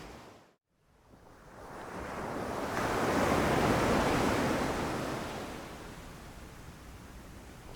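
Ocean waves: after a brief drop to near silence about half a second in, a wave rushes in, swelling to a peak around the middle and then washing back out.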